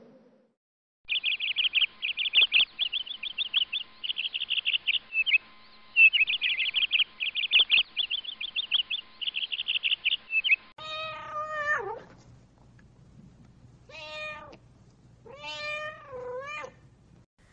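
Small bird chirping rapidly and continuously for about ten seconds. Then a cat meows three times, the first call falling steeply in pitch.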